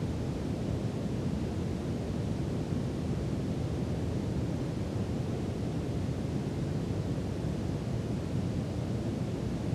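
Brown noise: a steady, even rumbling hiss, heaviest in the low end and falling away toward the treble, with no change throughout.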